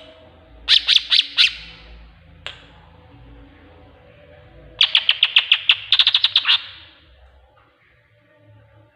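Greater green leafbird (cucak ijo) singing kingfisher-like (tengkek buto) phrases: a short burst of about five sharp, high notes about a second in, a lone note, then a fast rattling run of about fifteen notes, some eight a second, around the middle.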